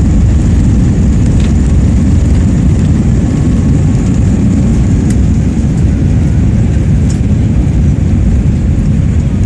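Airbus A320 heard from inside the cabin during takeoff: a loud, steady rumble of the jet engines and airflow, with a thin high whine above it.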